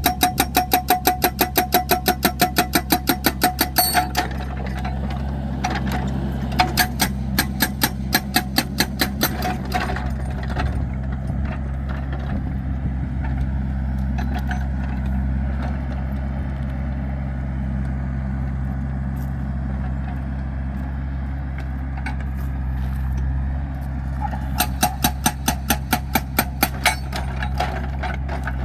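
Excavator engine running steadily, with three bursts of rapid, even knocking at about six a second: at the start, from about six to ten seconds in, and again near the end.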